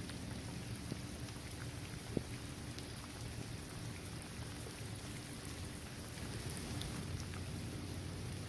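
Steady rain falling on a basketball court, trees and grass, with scattered individual drops ticking and one sharper drop about two seconds in.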